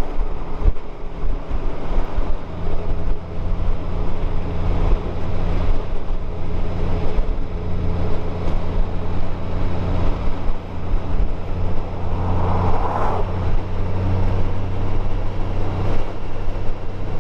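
Motorcycle engine running at a steady cruising speed, with wind and road noise.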